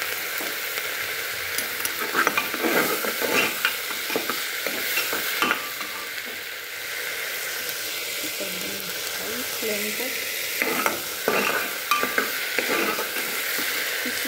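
Chopped onion, potato and green chilli sizzling in hot oil in a pressure cooker. A metal spoon stirs them, scraping and clinking against the pot in two spells, about two seconds in and again after about ten seconds.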